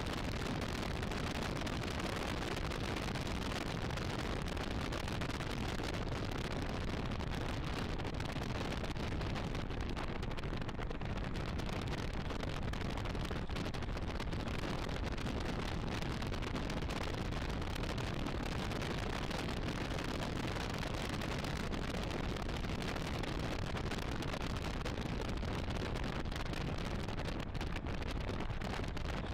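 1986 AC Cobra MK IV's V8 engine running at track speed, heard from the open cockpit and mixed with heavy wind buffeting on the microphone. The sound is steady and dense, with little change in level.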